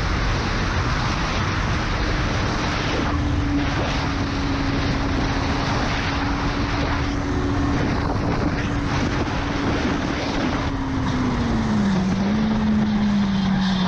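Car driving on the road: steady road and wind noise under a constant engine hum, which drops in pitch near the end as the car slows.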